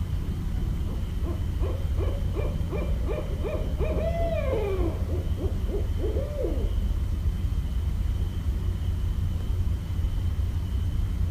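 Barred owl calling: a quick run of short hoots, a long hoot that slides downward in the middle, then a few more hoots ending on a drawn-out, bending note. A steady low rumble runs underneath.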